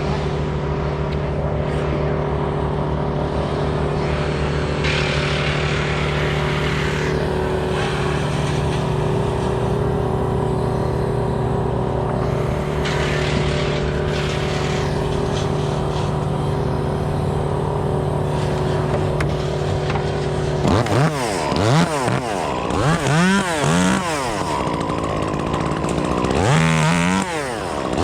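Small engine, most likely a chainsaw, idling steadily at a fixed pitch. About three-quarters of the way in it is revved up and down in a series of quick throttle blips.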